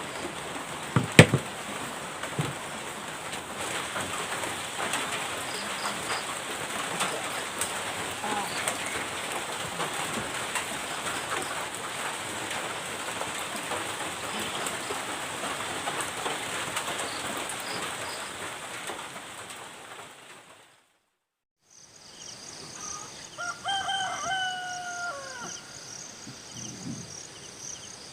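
Steady rain falling, with a sharp click about a second in. After a brief gap the rain gives way to insects trilling steadily, with a few short pitched animal calls near the end.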